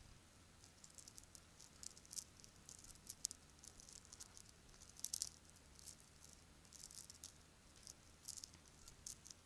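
Bracelets being handled, clinking and rattling together in irregular little clusters of light, high clicks, with a few sharper clinks.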